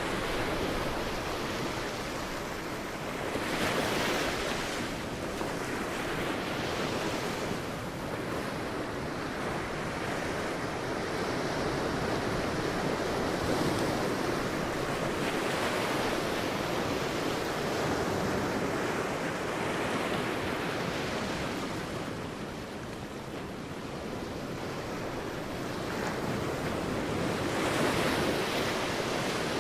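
Sea waves breaking and washing on a beach, in swells every few seconds, with some wind noise.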